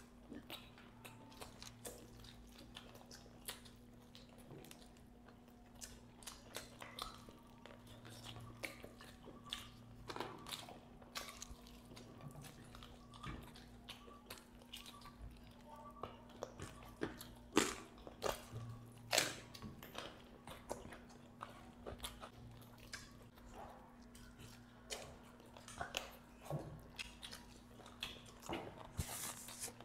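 Two people biting and chewing masala-fried chicken leg pieces close to clip-on microphones: wet chewing with irregular sharp bites and smacks, the two loudest a little past halfway.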